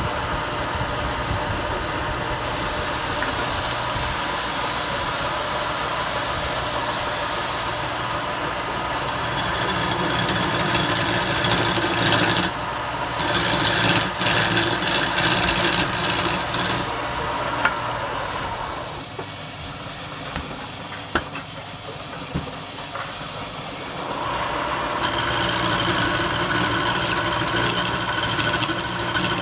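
Wood lathe running while a tool rubs and rasps against the spinning wood. The sound grows quieter for a few seconds past the middle, then comes back.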